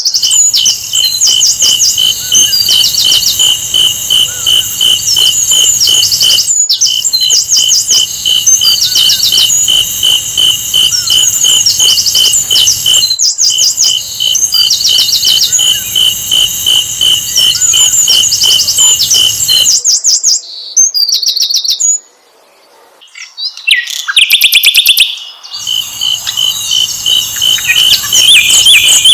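Recorded song of a sikatan londo flycatcher: short, high, chirpy phrases repeated over and over, over a steady fast pulsing tone. The song breaks off briefly about two-thirds of the way through, then resumes.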